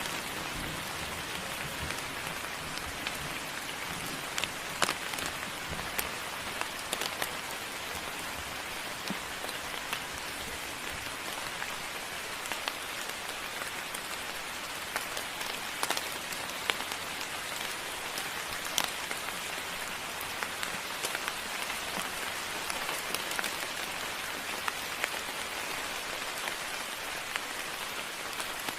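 Steady moderate rain falling, an even hiss with many sharp clicks of single drops hitting close by.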